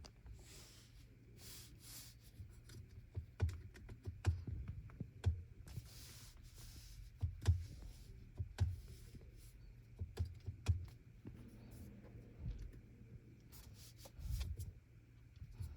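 Irregular clicks and taps with soft low thumps and a few brief rustles: small objects being handled and set down in a small enclosed space.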